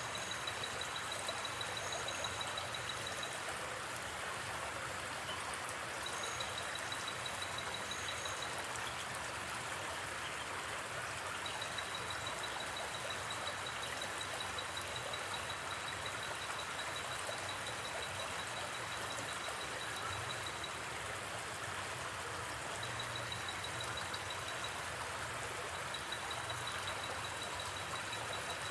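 A gently flowing river, a steady rush of water. Over it, a high, rapidly pulsing trill comes and goes in stretches of a few seconds.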